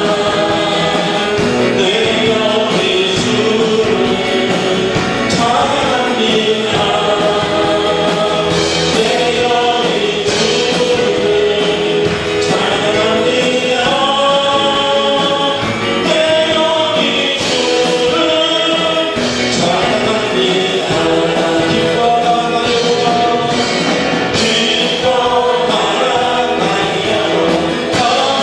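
Congregational praise singing: many voices singing a worship song together in Korean over instrumental accompaniment, continuous and loud.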